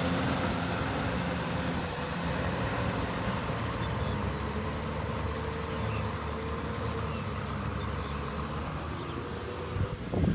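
Kubota tractor's diesel engine running steadily at an even pitch, slowly growing a little fainter.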